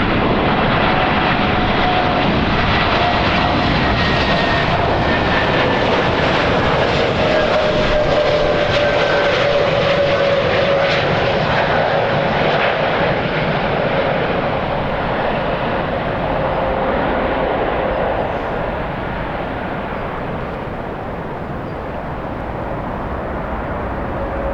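Jet airliner engines passing close by: a loud, steady roar with a whine that slowly falls in pitch, easing a little near the end.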